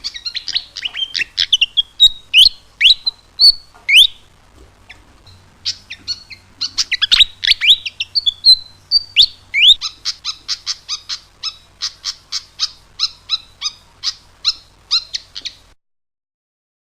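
Sikatan jawa flycatcher singing: a loud, quick jumble of whistles and falling chirps, then from about ten seconds in a fast run of short repeated notes, about four or five a second, that stops abruptly near the end.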